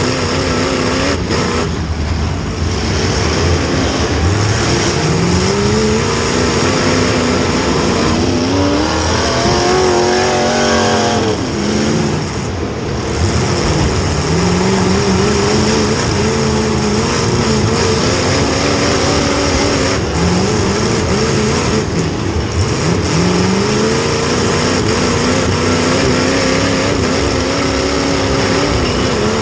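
Demolition derby car's small-block Chevy V8 running hard, revving up and dropping back again and again as it drives.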